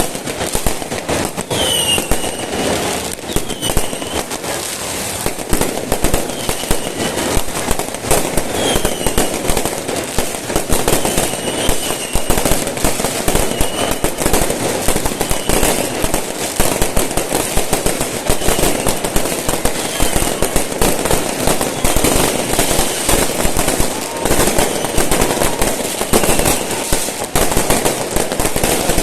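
Fireworks going off continuously: dense, rapid crackling and popping with many bursts overlapping, and a short high whistle-like tone every couple of seconds in the first half.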